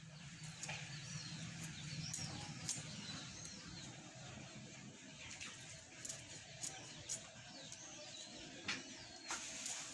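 Small birds chirping again and again in short curling calls, with sharp clicks or knocks scattered among them.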